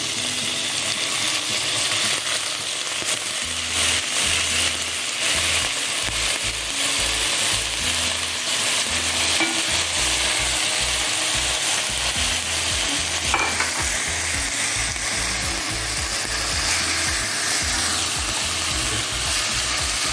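Raw chicken pieces sizzling in hot oil in a frying pan with sautéed garlic and onion: a steady frying hiss.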